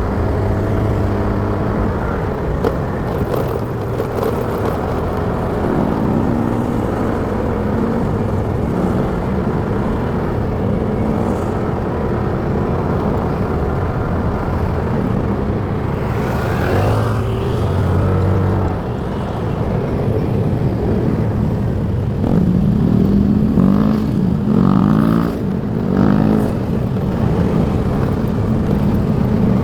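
Motorcycle engine running with road noise while riding, the engine pitch rising in a few short surges in the second half.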